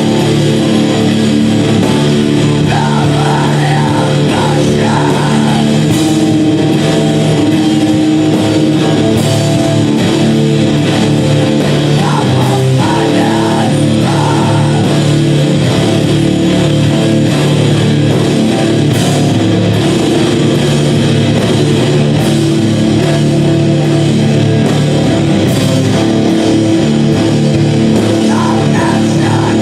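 Loud live heavy rock music led by sustained, distorted electric guitar, dense and without a break.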